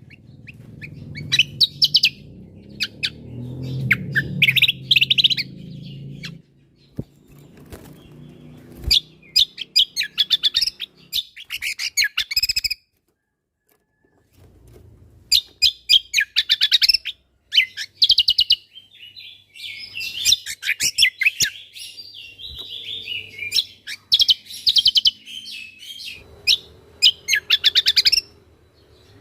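Cucak kombo (kecial kombo) songbird singing in fast bursts of sharp, high chattering notes and trills, with short pauses between phrases and a brief silence about halfway through. A low rumble sits under the song for the first few seconds.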